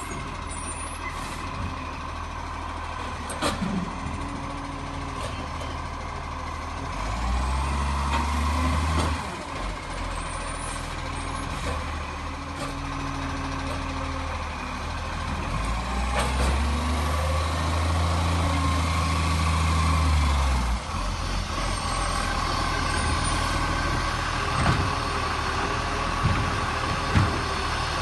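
Garbage truck engine running, revving up twice for a few seconds at a time with a rising whine, as when it drives the hydraulics to work the bin lifter. A few sharp knocks and clicks.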